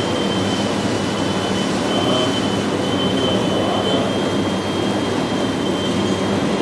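Radio-controlled model construction trucks running: a steady mechanical rumble with a thin, high electric whine that sets in at the start and holds steady.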